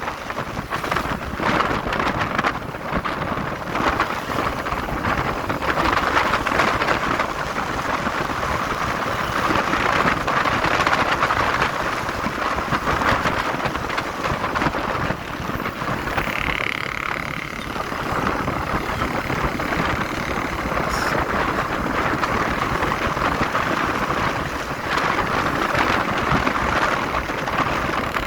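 Motorcycle on the move: wind buffeting the microphone over the engine and road noise, a steady rushing sound with a brief higher tone a little past halfway through.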